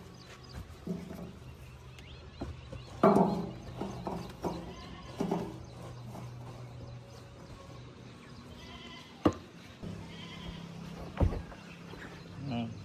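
Farm animals bleating several times, the loudest call about three seconds in, over a steady low engine hum, with two sharp knocks later on.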